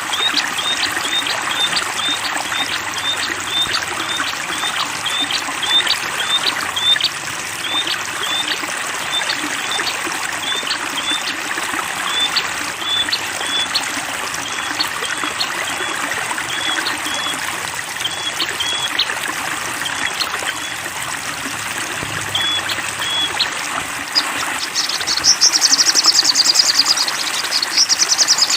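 Flowing water trickling steadily under a small songbird repeating one short high call about twice a second. The calls grow sparser and stop about 24 seconds in, and a fast, high trill takes over for the last few seconds.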